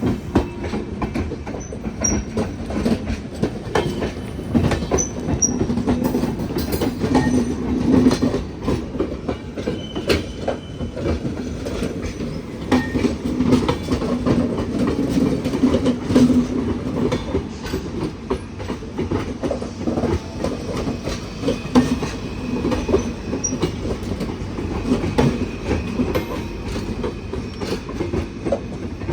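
Passenger train wheels clattering steadily over rail joints and the points of the double diamond crossing as the coaches roll past.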